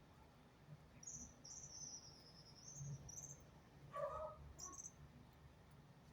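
Small birds chirping faintly: a run of high, thin chirps starting about a second in and lasting about two seconds, and another short chirp near the end. About four seconds in comes a lower squeak, the loudest sound.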